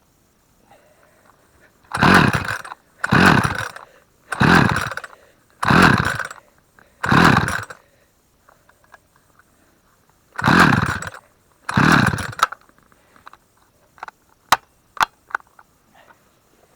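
Husqvarna 44 two-stroke chainsaw being pull-started: seven quick pulls on the recoil starter, five in a row and then two more after a pause. Each pull is a short cranking whirr that falls in pitch as the pull slows, and the engine does not catch. A few light clicks of handling follow near the end.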